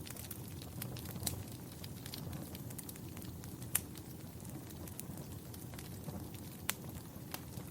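Wood fire burning in a fireplace: a steady low rumble of flames with scattered sharp crackles and pops, the loudest pops at about one, four and seven seconds in.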